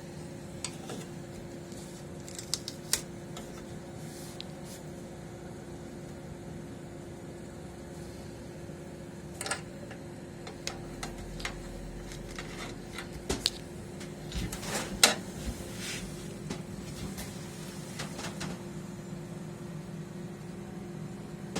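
A steady machine hum with a constant tone, with scattered clicks and light knocks on top; the sharpest knock comes about fifteen seconds in.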